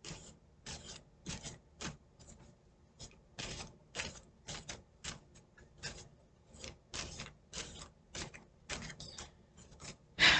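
Tarot cards being handled and shuffled by hand: a run of short, irregular swishes and taps, a few a second, with a louder one near the end.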